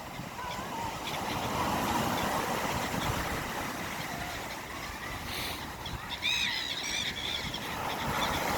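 Sea surf and wind rushing steadily, with a short run of high, squealing calls about six seconds in.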